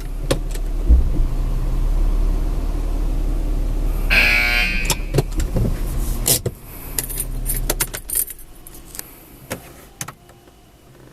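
Car running at low speed, heard from inside, with several sharp clicks and a brief high squeal about four seconds in; the rumble dies down about eight seconds in.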